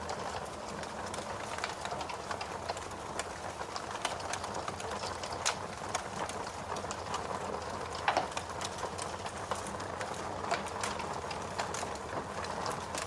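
Wood fire crackling and popping in a fireplace over a steady hiss of rain, with a few sharper pops, the loudest about eight seconds in.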